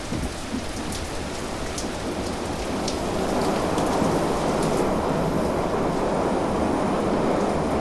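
Rain falling, with sharp ticks of drops striking a surface. About three seconds in, a louder, steady low rushing noise builds and takes over as the drop ticks fade.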